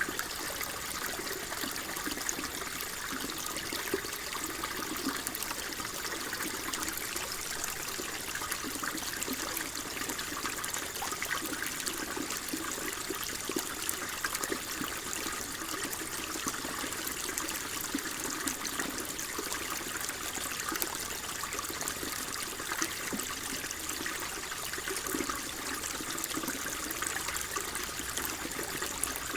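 Water flowing and trickling steadily, a constant babbling with fine splashy detail and no change in level.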